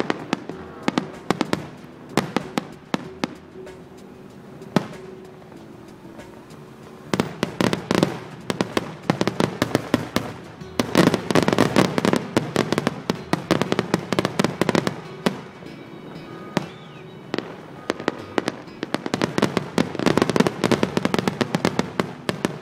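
Aerial fireworks shells bursting and crackling in rapid clusters of sharp bangs and pops, with quieter spells between the clusters. Background music plays underneath.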